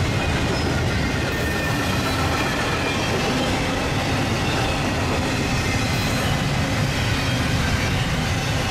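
Union Pacific double-stack intermodal freight train passing at speed: a steady, loud rumble and rattle of the well cars' wheels on the rails.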